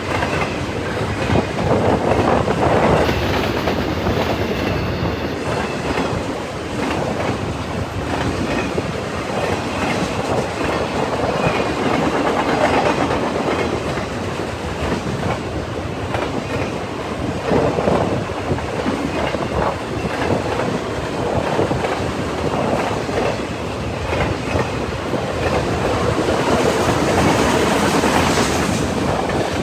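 CN freight train passing at speed: the steel wheels of a long string of cars rolling on the rails in a steady, loud rush that swells and eases a little as the cars go by.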